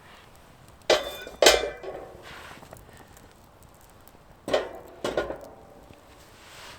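Metal camp gear clanking: two pairs of sharp clanks, about a second in and again about four and a half seconds in, each with a brief metallic ring.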